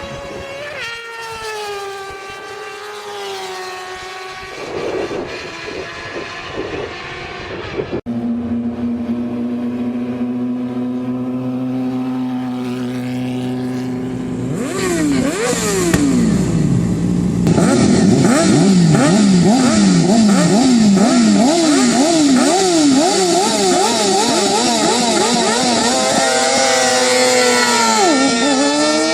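Sport motorcycle engines in several spliced clips. One bike passes with its pitch falling, and after an abrupt cut another engine gets louder and is revved up and down quickly, about twice a second, for several seconds near the end.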